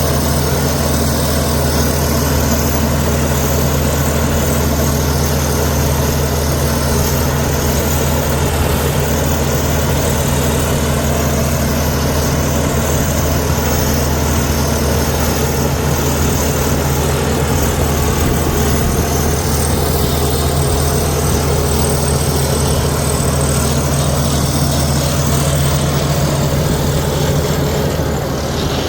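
Heavy diesel engine of a Komatsu D61EX bulldozer running steadily as a continuous low hum.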